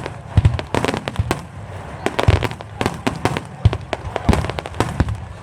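Aerial fireworks shells bursting in quick succession, with deep booms and sharper cracks overlapping several times a second.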